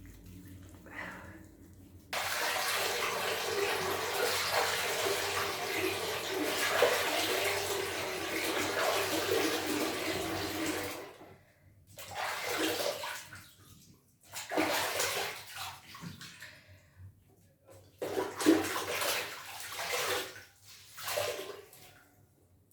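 Tap water running steadily, turned on suddenly about two seconds in and off again about nine seconds later, followed by several shorter bursts of running or splashing water.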